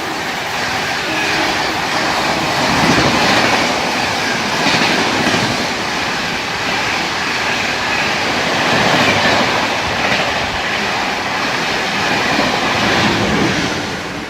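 Train passing at speed, its wheels rumbling and clattering over the rail joints with a faint high ringing from the wheels on the rails. The noise falls away near the end.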